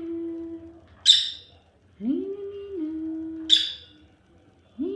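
An African lovebird giving short shrill chirps, twice, alternating with a person's long wordless vocal sound that rises in pitch and then holds, like a questioning hum, answering the bird.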